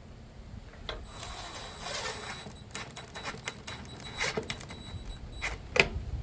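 Irregular clicks, knocks and short scrapes of hardware being handled and fitted while a small solar panel is mounted, with the sharpest knock near the end. A low wind rumble on the microphone runs underneath.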